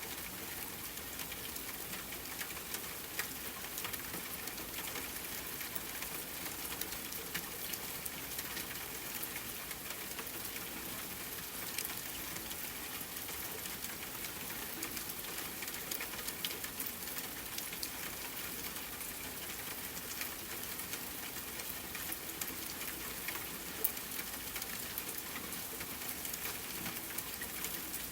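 Steady rainfall hiss mixed with the crackling of a fireplace fire: many small pops through the rain, with a sharper pop about 24 seconds in.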